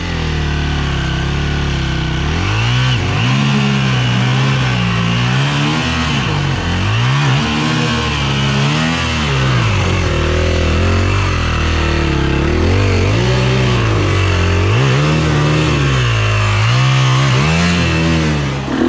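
Dirt bike engine running steadily, then from about two seconds in revving up and down in repeated surges as the bike is worked up a slick, muddy hill climb.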